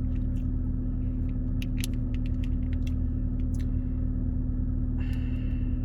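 A steady low hum and rumble throughout, with a run of short, crisp mouth clicks and smacks from chewing food in the middle.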